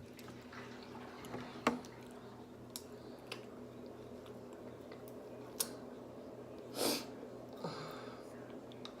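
Close-up eating sounds of a person chewing a sushi roll: soft chewing with a few sharp mouth clicks, and a short breathy noise about seven seconds in. A low steady hum runs underneath.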